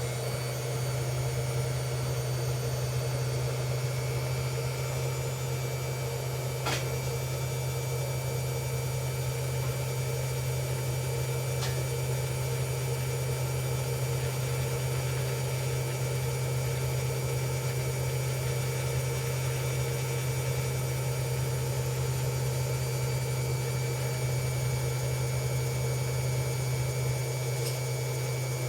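Hoover Ecologic Computer Washer 1300 washing machine running steadily in its rinse/spin programme: an even motor hum with steady whining tones over it, and one faint click about seven seconds in.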